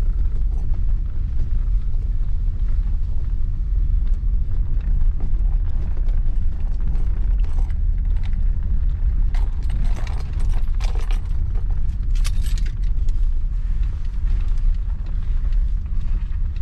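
Steady low rumble of a vehicle on the move, heard from on board, with scattered creaks and rattles.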